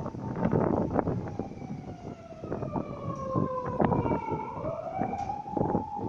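A siren wailing: one tone falls slowly over a few seconds, then rises again quickly and holds, over scattered clicks and rustling.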